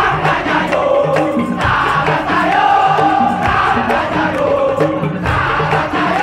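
Madurese daul music ensemble playing: steady, repeated percussion strokes under a sustained melody line.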